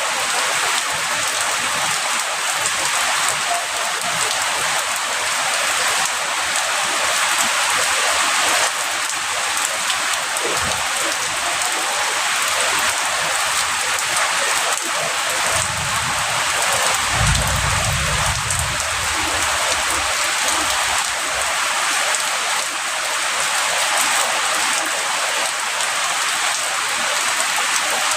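Heavy rain falling steadily in a dense, even hiss. About halfway through, a low rumble of distant thunder swells for a few seconds and fades.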